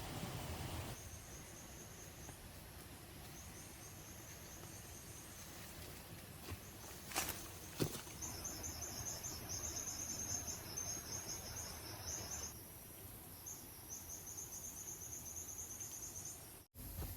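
Insects trilling in phrases of rapid, high-pitched pulses over a faint outdoor hiss, with the longest runs in the second half. Two sharp knocks about midway are the loudest sounds.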